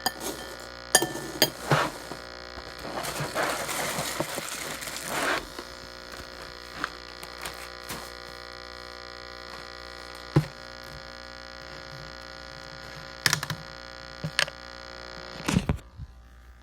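Spoon clinking against a cereal bowl every few seconds, with a few seconds of rustling noise early on, over a steady electrical hum that fades near the end.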